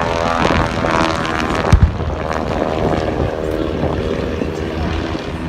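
Propeller aircraft engine droning as it passes, its pitch falling slightly and fading away, with a single sharp thump a little under two seconds in.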